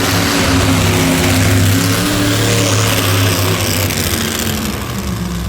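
Monster truck engine running loud and steady, holding one pitch, easing off slightly near the end.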